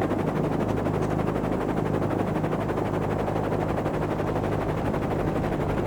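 Helicopter in flight: a steady, rapid chop of the rotor blades over a low engine drone.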